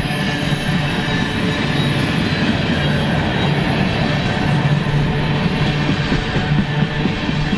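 Freight train of tank cars and covered hoppers rolling past, a steady rumble of wheels on rail with some squeal, with wind buffeting the microphone.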